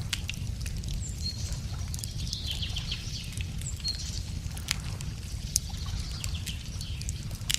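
Wood fire crackling with scattered sharp pops, while small birds chirp now and then, over a steady low rumble.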